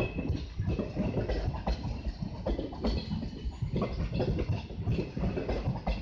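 Trenitalia passenger coaches rolling past on the track: a steady low rumble from the wheels, with many irregular knocks and clacks as they run over rail joints and pointwork.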